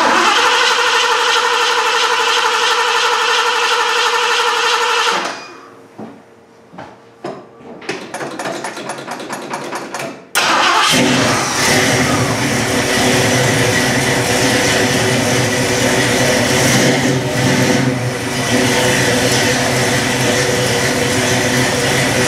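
A classic Ford Mustang's carbureted V8 being cranked over by its starter on a low battery with a jump box. It cranks for several seconds, falters, then catches about ten seconds in and keeps running. It is slow to fire because the carburetor has dried out after long sitting and fuel has to be drawn up.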